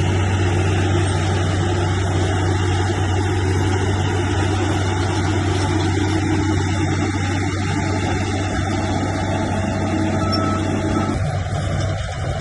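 Heavy diesel earthmoving machinery running steadily under work, a deep low engine hum with broad mechanical noise over it; the sound thins out near the end.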